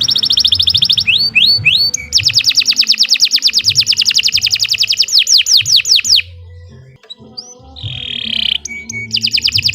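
Domestic canary singing long, rapid trills of repeated sweeping high notes. There is a short pause about six seconds in, then a brief note and another trill near the end.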